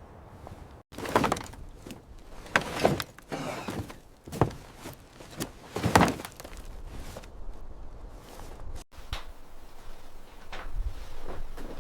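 Clunks and knocks of parts and tools being handled during work on a locomotive, several sharp strikes in the first six seconds, then only faint rustling.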